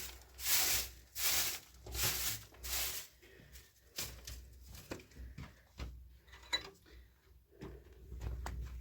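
Rhythmic scraping or rubbing strokes, about one every 0.7 s, which stop about three seconds in and give way to scattered clicks and knocks of handling.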